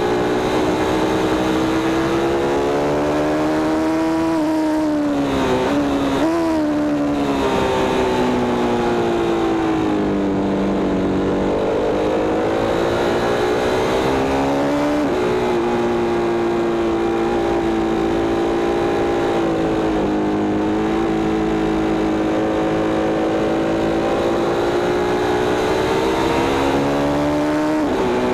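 Sport motorcycle engine at track speed, heard from the bike with wind rush. Its pitch falls with a couple of quick jumps about five to seven seconds in as the rider brakes and shifts down for a turn. It then climbs as the bike accelerates and shifts back up.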